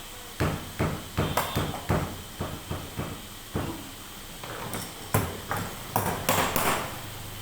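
Hammer blows on wood, irregular, about two or three a second, each with a short ring, pausing briefly midway.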